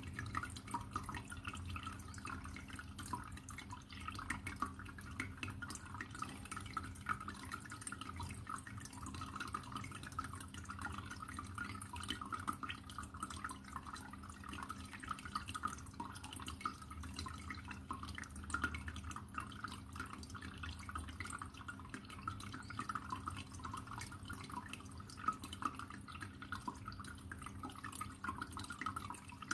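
Water trickling steadily with a dense patter of small drips, over a faint, steady low hum.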